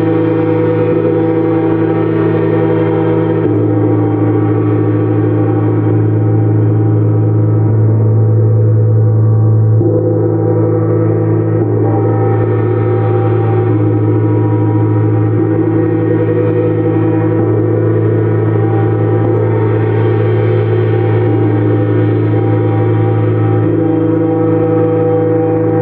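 Gongs played continuously as a gong bath: a dense, steady wash of many overlapping ringing tones. The lower tones shift every few seconds, and no single strike stands out.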